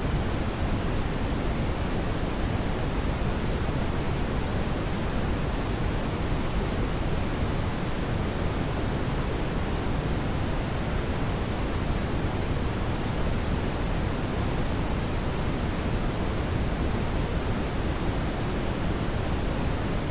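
Steady brown noise: a constant deep hiss, strongest in the low end and unchanging throughout.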